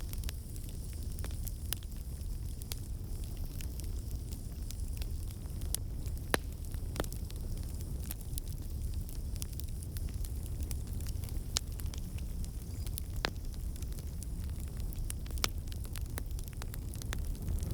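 Wood fire crackling in a fireplace: a steady low rumble of flames with scattered sharp pops and snaps at irregular moments, a few of them louder than the rest.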